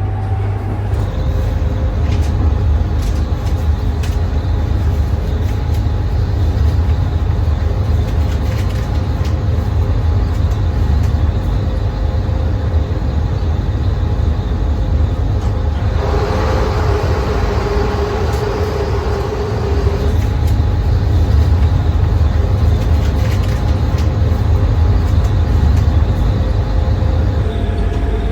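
Electric passenger train running, heard from on board as a steady low rumble. About halfway through, a hiss with a steady high squeal rises for about four seconds, then fades back into the rumble.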